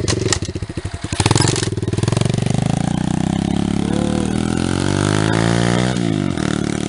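110cc pit bike's single-cylinder four-stroke engine idling with a slow pulse, then revving up: its pitch climbs steadily for about four seconds, drops sharply about six seconds in and settles into a steady run.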